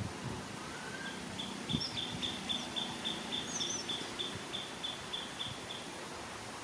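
Birds calling: one gives an even series of short high notes, about four a second, for several seconds, with a few single chirps from others over a steady outdoor hiss.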